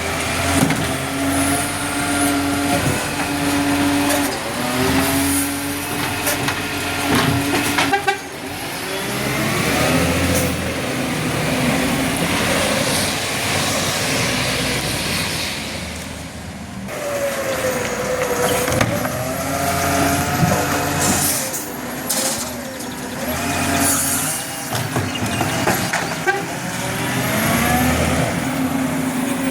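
Garbage truck's diesel engine running, its pitch rising and falling as the truck works.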